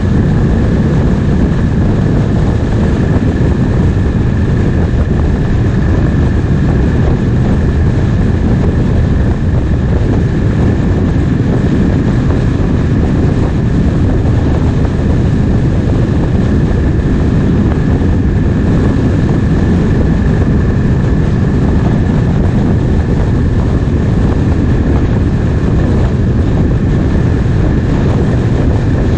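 Triumph Speed Twin 1200's parallel-twin engine running at a steady cruise under wind rushing over the microphone, with a thin steady whistle above the rumble.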